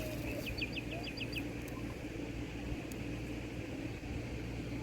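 A small bird sings a quick run of about seven short, high, falling chirps in just over a second, near the start, over a steady low rumble of background noise.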